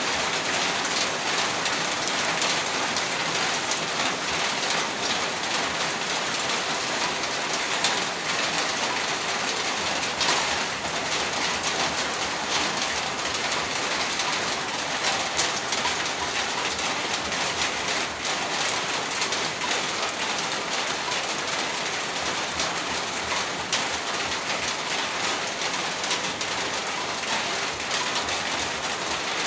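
Heavy rain pouring steadily onto a surface, a dense hiss thick with the patter of individual drops.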